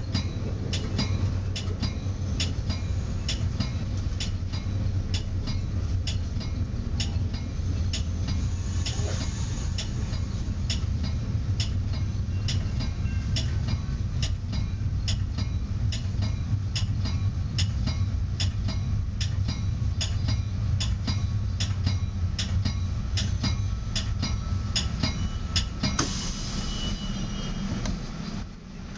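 Metra commuter train under way, heard from inside the cab car: a steady low rumble with a quick, regular run of clicks from the wheels over the rails. A hiss comes in near the end.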